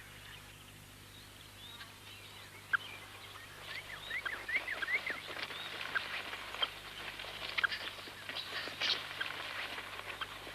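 Mongooses chattering in alarm: many short, high chirps that sweep up and down in pitch, sparse at first and coming thick and fast from about three seconds in.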